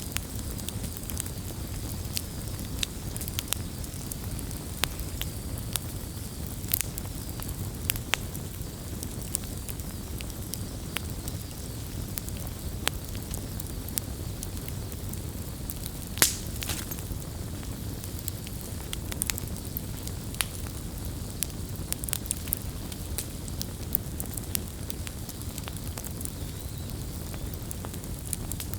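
Wood campfire burning: a steady low rush of flames under frequent, irregular sharp crackles and pops, with one louder pop about halfway through.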